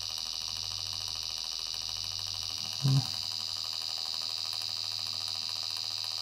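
Small electric motor spinning a 3D-printed fan rotor, running steadily with a high whine over a low hum. A brief low sound about three seconds in.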